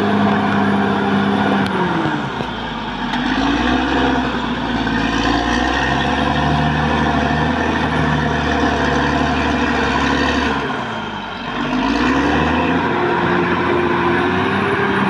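Caterpillar D6R XL bulldozer's diesel engine running loud, its note dropping about two seconds in and again near eleven seconds, each time climbing back up, with a deep rumble while the note is low.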